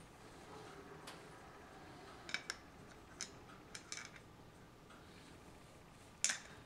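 Hard toys being handled: a scatter of about seven short, sharp clicks and taps over a quiet room, the loudest one near the end.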